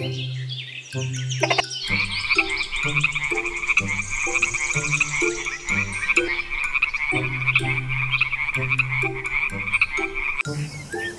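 Tree frogs calling: a fast, continuous croaking trill that starts about two seconds in and cuts off near the end.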